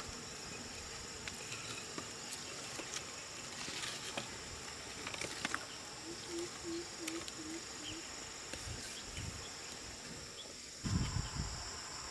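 Insects chirring steadily in a high, even drone. About halfway through comes a run of five short low notes in quick even succession, and near the end there are some low thumps.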